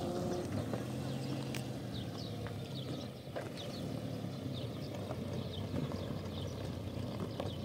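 A car engine running steadily at low revs as a sedan drives slowly over a dirt lot, with small birds chirping repeatedly throughout.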